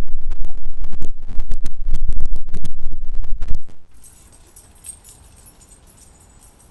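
Loud rustling and clattering with heavy rumble, like a camera or phone being grabbed and moved with the microphone rubbed. It stops suddenly after about three and a half seconds and drops to a faint hiss.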